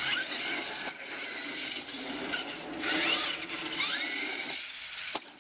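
Electric motor of a radio-controlled monster truck whining, rising in pitch several times as it is throttled up, over a steady hiss; the sound drops away briefly near the end.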